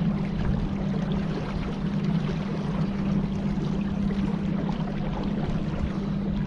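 An engine running at a steady speed, giving a constant low drone, with rushing wind and water noise over it.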